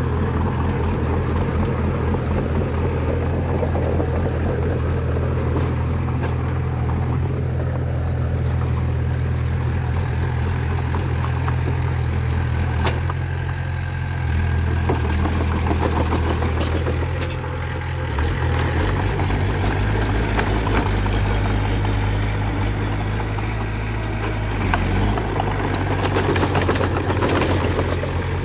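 Heavy diesel engine of earthmoving equipment running steadily, its low note shifting about two-thirds of the way through as the load or engine speed changes.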